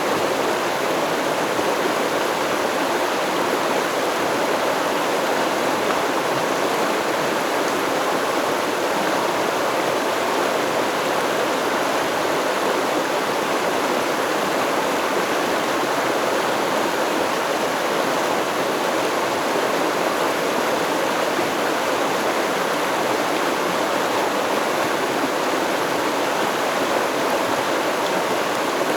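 Stream of water flowing steadily over rocks, an even rushing babble that does not change.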